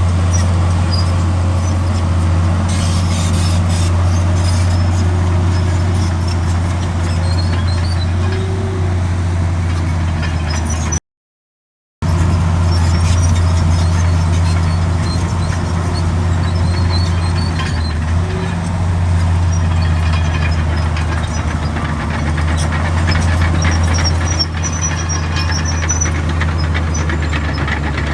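Heavy diesel earthmoving machinery running steadily under load, with high-pitched metallic squeaks over the engine. The sound cuts out completely for about a second partway through.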